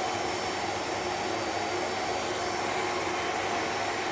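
Vacuum cleaner running steadily with an even whine.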